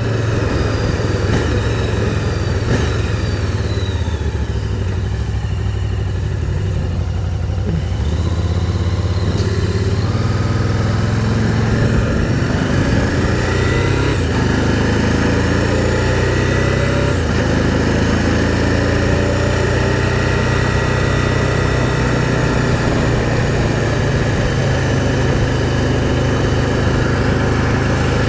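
Can-Am Spyder three-wheeled motorcycle engine running under way, recorded from on board. The engine note rises repeatedly as the machine accelerates, then settles into a steady drone.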